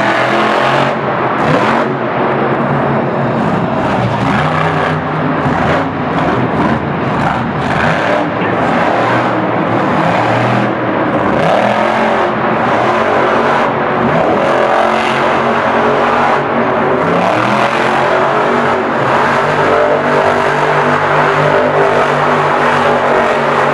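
Monster truck engines running hard and revving, the pitch rising and falling repeatedly.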